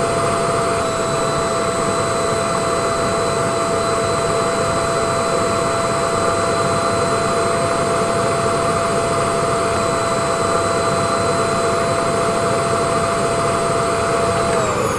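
A loud machine with a rushing air noise and a steady high whine, as from a vacuum cleaner or a turbine. Near the end the whine starts to drop in pitch as it winds down.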